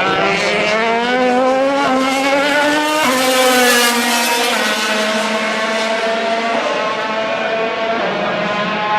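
MotoGP racing motorcycle's four-cylinder engine at full throttle, its pitch climbing in steps as it pulls through the gears, then dropping sharply about three seconds in and running on at a lower, steadier pitch.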